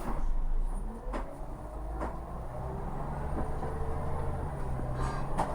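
Scania L94UB bus's diesel engine running under way, its note rising gradually as the bus accelerates from about halfway in, with a few short knocks and rattles.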